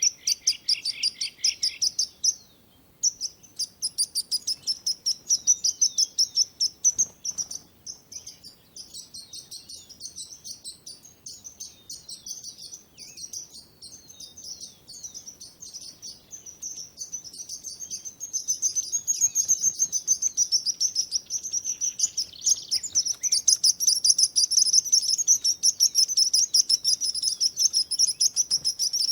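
Small birds chirping and twittering in a dense, rapid stream of high notes. The chirping stops briefly about two and a half seconds in, is quieter through the middle, and grows louder in the second half.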